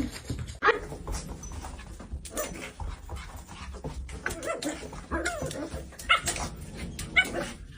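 A dog whining in a string of short, uneven, pitched calls, complaining after being scolded and refused its dinner.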